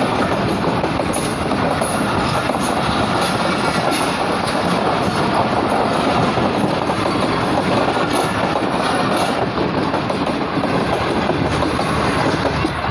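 Passenger express train running through a station at speed: a loud, steady rush of coaches and wheels on the rails.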